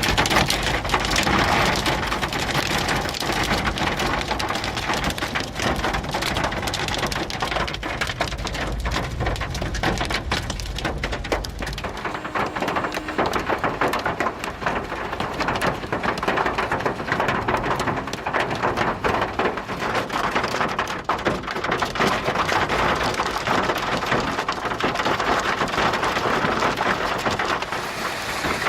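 Heavy rain pouring down, a dense steady patter of drops hitting surfaces, with a deeper rumble underneath for the first twelve seconds or so.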